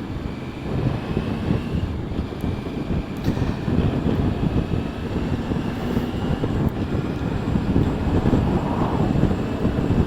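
Motorcycle riding at road speed: a steady mix of engine and road noise with wind rushing over the rider's microphone.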